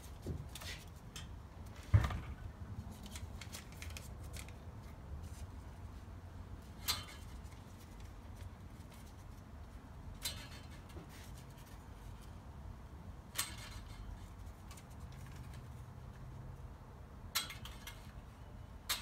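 Scott Bonnar Model 45 cylinder mower's cutting reel turned by hand, its blades snipping paper against the freshly set bed knife. There is a sharp knock about two seconds in, then a single crisp snip every few seconds.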